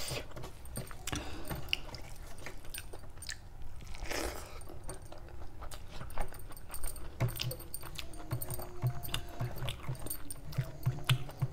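Close-miked chewing and wet mouth sounds of someone eating rice and chicken kofta curry by hand, with fingers squishing and mixing rice on a steel plate. Irregular light clicks throughout, and a brief rush of noise about four seconds in.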